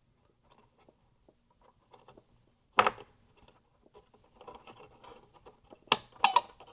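Faint scraping and handling noises inside an opened iMac as the RAM modules are worked loose, with a sharp click about three seconds in and a quick cluster of sharp clicks near the end.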